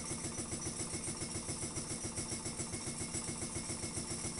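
Home-built Ringbom Stirling engine running freely after a hand spin, unloaded, making a fast, even pumping beat with each stroke of its piston and flywheel.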